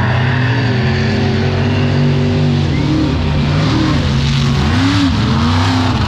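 Mega truck engines running loud, revving up and easing off several times in quick swells.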